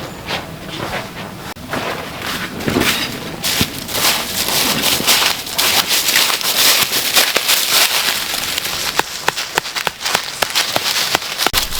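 Dry twigs and forest litter crackling and snapping while small fire twigs are gathered, a dense crackle that turns into a run of separate sharp snaps near the end.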